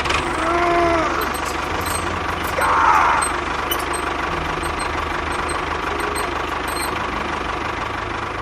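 A small motor runs steadily with a noisy mechanical hum. A short whine rises and falls about half a second in, and the noise swells briefly near three seconds.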